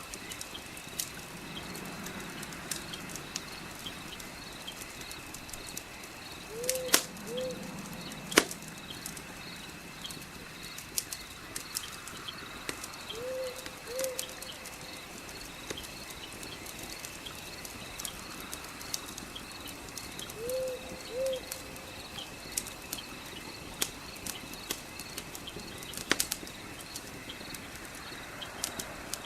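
Fireplace crackling with scattered sharp pops, under a steady night-insect trill. A bird's low two-note hoot repeats about every seven seconds, four times.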